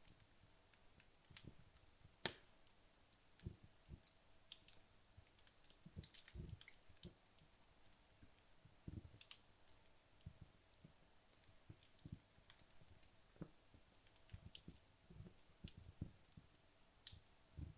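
Wood fire burning low in a fireplace: faint, irregular crackles and pops from the burning logs, with a few sharper snaps and some soft low thumps.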